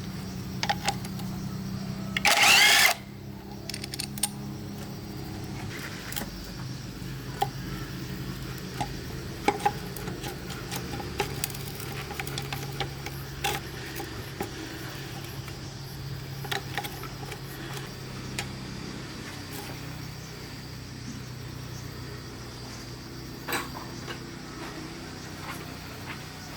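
Workshop metalwork: tools clicking and knocking on metal over a steady low machine hum, with one loud, harsh squealing burst lasting under a second about two and a half seconds in.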